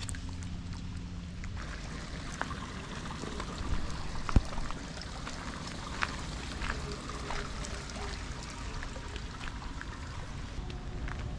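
Water running and trickling steadily, with scattered small clicks and one sharp click a little over four seconds in.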